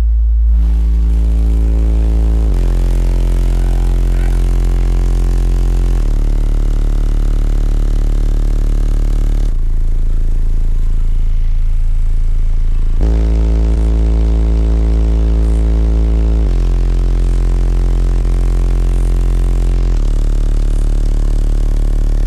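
Truck's car-audio subwoofer system playing very loud sustained low bass notes, stepping to a new note about every three and a half seconds.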